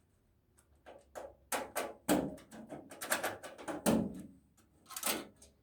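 A run of irregular clicks and knocks from handling a computer case while its screws are being undone with a screwdriver. The run starts about a second in and ends near the end.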